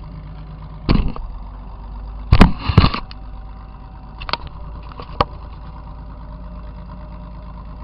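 Demolition derby car heard from inside the cab: its engine running steadily low, with a loud bang of metal about a second in, two more in quick succession around the middle, then two lighter knocks.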